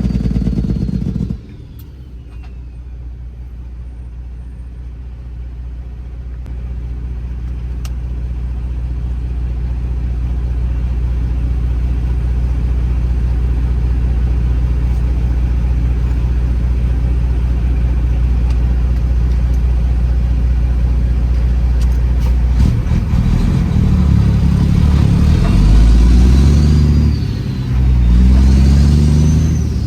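Straight-piped Detroit Series 60 diesel in a Peterbilt 389 running under load. A louder stretch cuts off about a second in, then the engine drones steadily and slowly grows louder. Near the end the revs rise and fall several times, and a high turbo whistle rises and falls twice.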